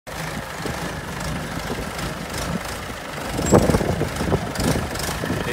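Tractor engine running steadily, with a louder stretch of clatter about three and a half seconds in.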